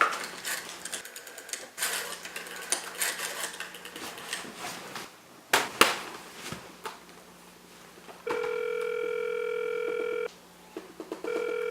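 Faint clicks and handling noise, then a telephone line tone heard through the handset: a steady tone sounding for about two seconds, breaking off for a second, then starting again.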